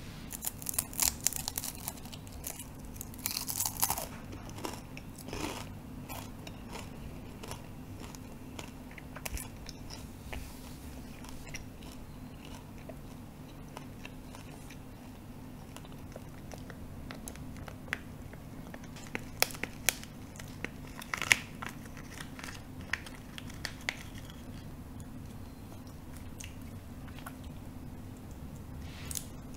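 Close-miked biting and chewing of a dehydrated tarantula: a dense run of crisp crunches over the first few seconds, then scattered mouth clicks and chewing, with another burst of sharp crunches about two-thirds of the way through.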